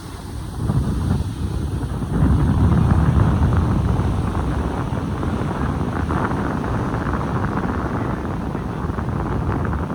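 Wind buffeting the microphone, a loud low rumble, with ocean waves washing underneath. The buffeting grows stronger about two seconds in.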